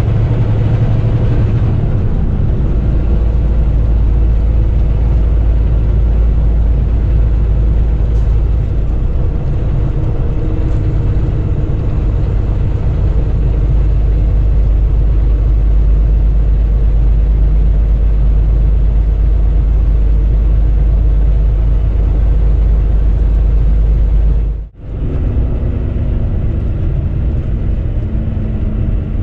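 Semi-truck driving at road speed, heard from inside the cab: a steady low engine drone and road rumble. It drops out sharply for a moment near the end.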